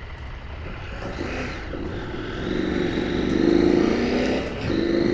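Motorcycle engine pulling under acceleration over a steady low rumble of wind and road noise, its tone rising and getting louder from about halfway in. It drops away briefly near the end and then picks up again, like a gear change.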